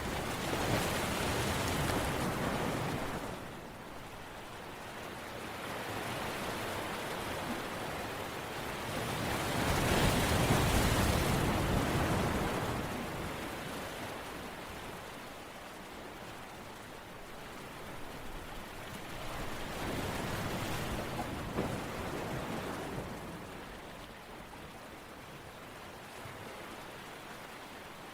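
Rushing, hissing water-like noise that swells and fades in slow surges roughly every ten seconds, like surf washing onto a shore; the strongest surge comes about ten seconds in.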